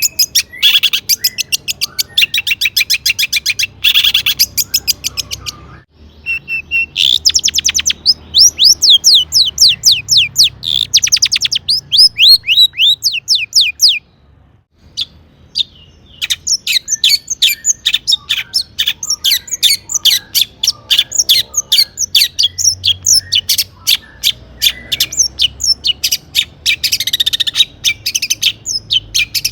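Long-tailed shrike singing a loud, fast run of sharp chattering notes, with a stretch of quickly repeated downward-sliding whistles in the middle. A pause of about two seconds falls just after halfway, then the rapid notes resume.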